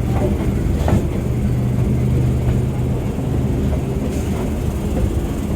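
Electric multiple-unit suburban local train running on the track: a steady low rumble and hum, with a couple of sharp clicks near the start.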